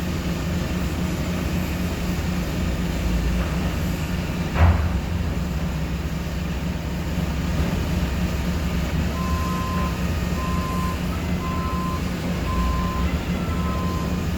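Forklift engine running steadily, with one loud thump about four and a half seconds in. From about nine seconds in, a reversing alarm beeps about once a second.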